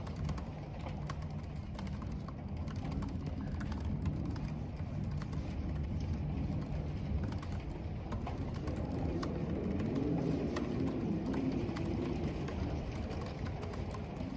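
Wind blowing in a steady low rumble that swells about two-thirds of the way through, with scattered computer keyboard key clicks over it.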